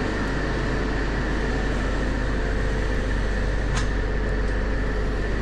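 Machinery running steadily, with a deep hum and a constant thin whine, and a single click about four seconds in.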